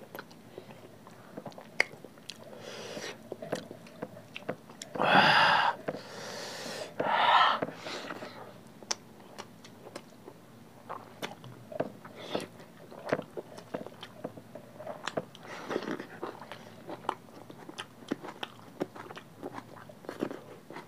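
Close-miked chewing and wet mouth sounds of two people eating curry and rice with their hands, with many small clicks and smacks. Two louder, longer wet sounds come about five and seven seconds in.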